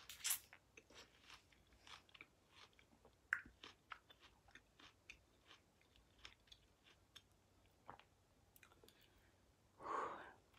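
Faint, close chewing of star fruit (carambola): a crisp bite at the start, then soft wet clicks of chewing, with one breathy exhale near the end.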